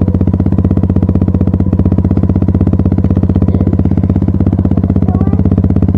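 Dirt bike engine running at a steady, even pitch, its rapid firing pulses loud and unchanging throughout.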